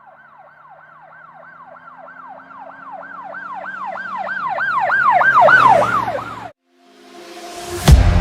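Emergency vehicle siren in a fast yelp, rising and falling about three to four times a second, growing steadily louder as it approaches, then cut off abruptly. Near the end a rising swoosh ends in a sudden loud bang.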